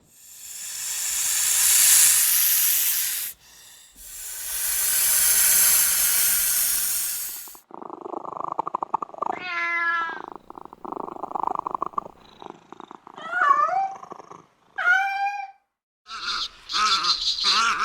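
An animal hissing in two long, swelling breaths. These are followed by a rapid rattling purr or growl mixed with wavering, whining calls, and high chirps near the end.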